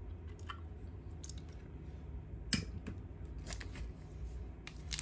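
A few faint, short clicks and taps of small objects being handled, the clearest about two and a half seconds in, over a steady low hum.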